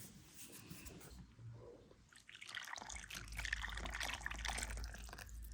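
Liquid being poured into a mixing bowl of dough ingredients, starting about two and a half seconds in and running on steadily.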